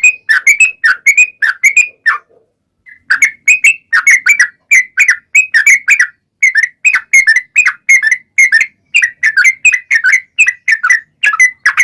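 Yellow-vented bulbul (trucukan) singing a long, fast run of short bubbly chirping notes, about three or four a second, with a brief pause about two seconds in.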